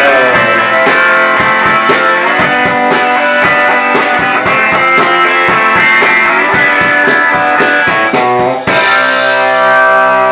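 A live band plays an instrumental guitar passage over rapid, regular percussive hits. About eight and a half seconds in, the playing stops abruptly, leaving a chord ringing out steadily.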